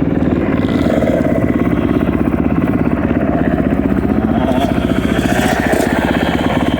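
Dirt bike engine running steadily, its firing pulses rapid and even.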